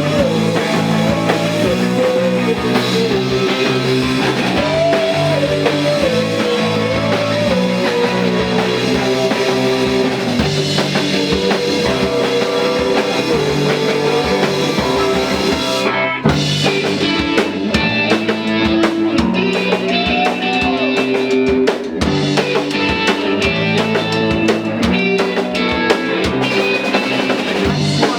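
Live rock band playing an instrumental passage: a lead guitar line bending between notes over bass and a steady drum-kit beat.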